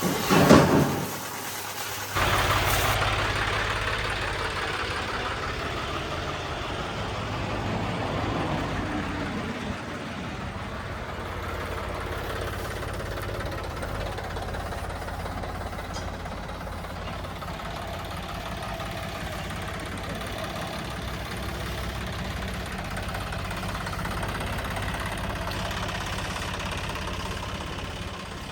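A short, loud rushing burst, then a tractor's diesel engine running steadily.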